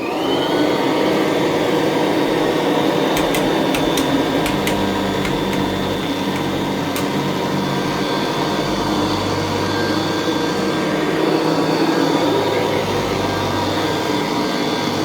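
Kirby Classic III upright vacuum cleaner motor spinning up with a rising whine, then running steadily. A few sharp ticks come between about three and seven seconds in.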